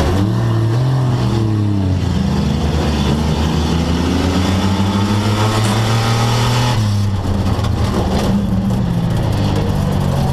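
Front-wheel-drive stock car's engine running loud as heard inside its stripped cabin, its pitch rising and falling as the throttle is worked; it turns rougher and noisier about seven seconds in as the throttle opens up.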